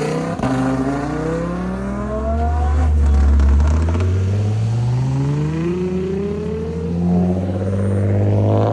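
Car engine accelerating hard, its pitch climbing in several long sweeps one after another.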